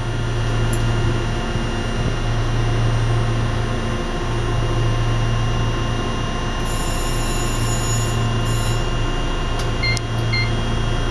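A Fukui Railway railcar standing at a platform, its onboard equipment giving a steady low electrical hum. A brief high hiss comes about seven seconds in, and short electronic beeps come near the end.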